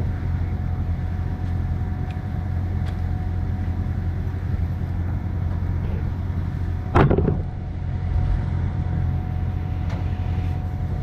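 Concrete mixer truck's engine running steadily at idle, a low hum. A single sharp knock cuts through about seven seconds in.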